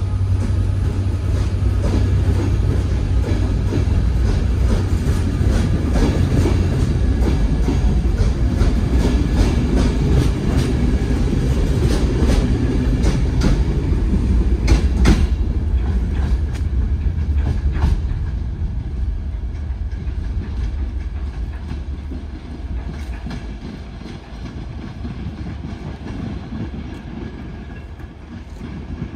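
Passenger train of coaches rolling past a station platform: a deep rumble, with the wheels clicking over rail joints. After about 18 s the sound fades as the rear driving van trailer passes and the train draws away.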